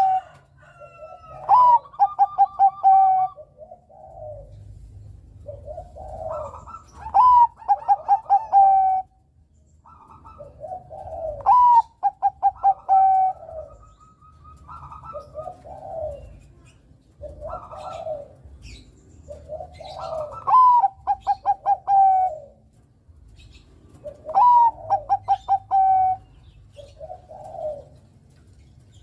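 Bangkok perkutut (zebra dove) singing. It repeats a cooing phrase about six times: a quick run of short notes followed by a long held coo. Softer coos come between the phrases.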